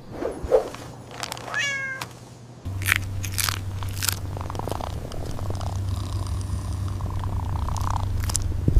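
Cat meowing, with short sharp sound effects around it and a steady low hum that starts about a third of the way in.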